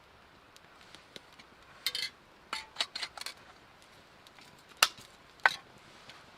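Scattered sharp clinks and knocks of small hard objects being handled: a quick cluster around two to three seconds in, then two louder clicks under a second apart near the end.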